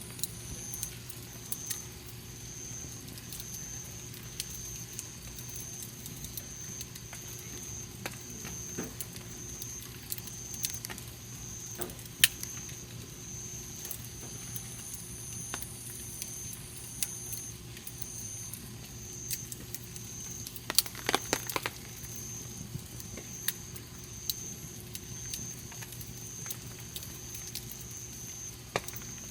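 Wood campfire burning, with scattered crackles and pops from the wood. There is a sharp pop about twelve seconds in and a quick cluster of snaps around twenty-one seconds. A high, evenly pulsing chirp runs steadily underneath.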